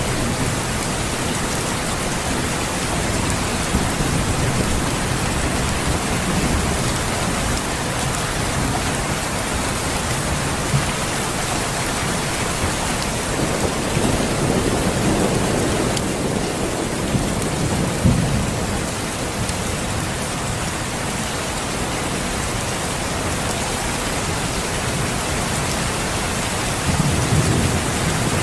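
Steady, heavy rain hissing, with low rolls of thunder swelling in a few times and one sharper thunderclap about two-thirds of the way through.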